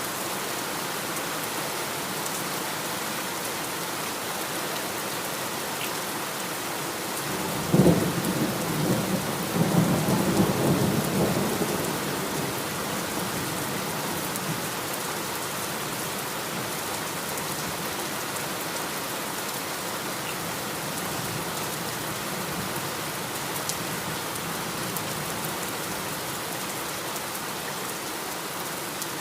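Steady heavy rain, with a sudden thunderclap about eight seconds in that rumbles on for three or four seconds before the rain alone carries on.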